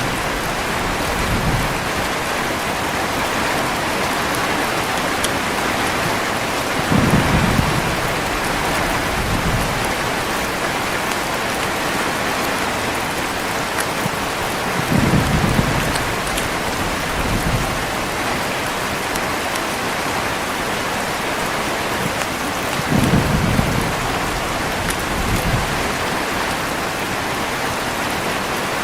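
Steady heavy rain with low rolls of thunder about every eight seconds, three in all. Each roll is followed by a weaker rumble a couple of seconds later.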